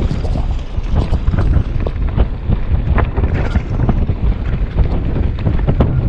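Wind buffeting the microphone in a heavy, continuous rumble, with frequent irregular short knocks and rattles on top.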